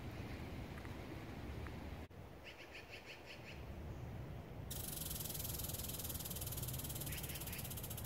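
Outdoor woodland ambience over a low steady rumble. A bird gives a quick run of about seven high chirps about two and a half seconds in. From about five seconds in, a steady, high-pitched, fast-pulsing buzzing trill carries on, with a few more chirps over it.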